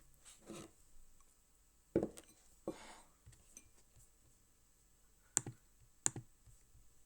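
A few scattered sharp clicks and soft taps, the two sharpest near the end, over a quiet room.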